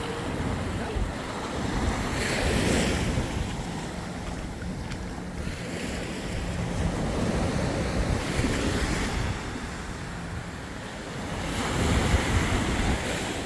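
Waves washing up on the beach in slow surges, several swells a few seconds apart, with wind buffeting the microphone.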